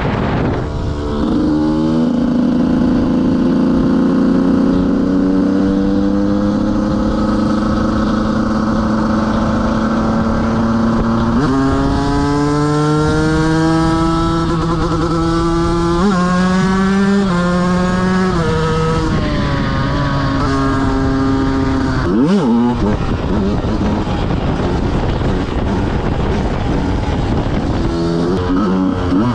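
KTM 125 single-cylinder motorcycle engine being ridden hard through the gears. The engine note climbs steadily, jumps and climbs again twice, then drops off with the throttle closed, gives a quick sharp blip, and picks up again near the end.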